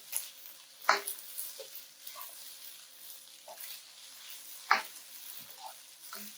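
Turmeric fried rice and vegetables sizzling in a wok while being stirred, with sharp knocks of the stirring utensil against the wok about a second in and again near the five-second mark.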